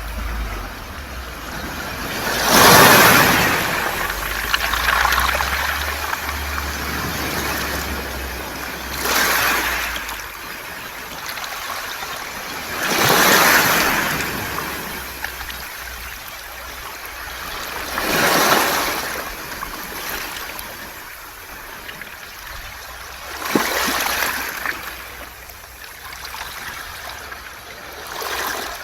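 Waves washing up a beach of round pebbles, the stones hissing and rattling as the water runs over them. A surge swells and fades about every five seconds, six times, over a steady wash of water.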